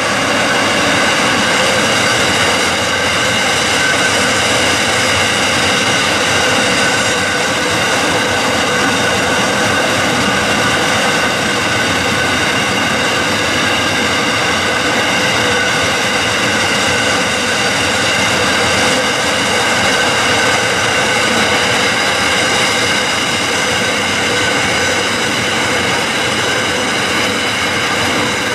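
Empty magnetite ore wagons of a long freight train rolling past at speed: a steady wheel-on-rail rumble with several sustained high ringing tones from the wheels.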